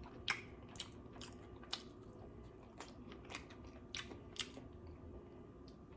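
Close-miked chewing and biting: soft mouth noises with a series of short, sharp wet clicks, about seven spread across a few seconds.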